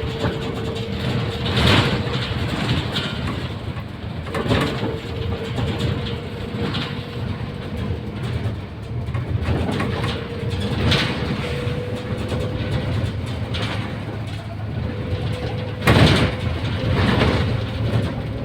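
Mercedes-Benz O530 Citaro city bus under way, heard from inside: a steady low rumble with a thin whine that climbs slowly in pitch, and occasional sharp knocks and rattles, the loudest about 16 seconds in.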